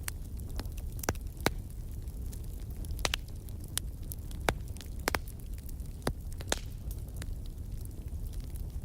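Fireplace fire crackling, with irregular sharp pops over a low steady rumble.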